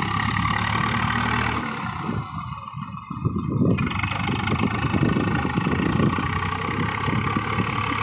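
Diesel farm tractor engine running steadily, dipping briefly about two seconds in before carrying on a little louder.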